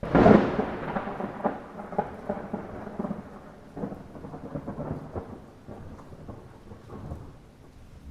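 A close thunderclap over light rain: a sudden sharp crack, then crackling, rolling rumbles that die away over about seven seconds.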